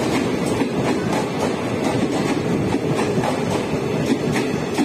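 Express-train passenger coaches running past: a steady rumble of steel wheels on rail, with repeated clicks as the wheels cross the rail joints a few times a second.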